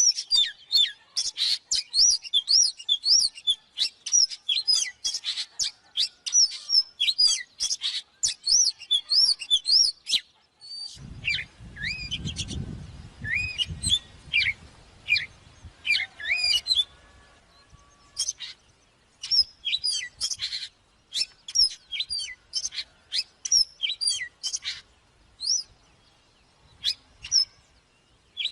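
Oriental magpie-robin singing: a fast, varied run of sharp whistled notes and slurs. The song breaks off briefly about ten seconds in, and a low rumble sits under it for a few seconds after that.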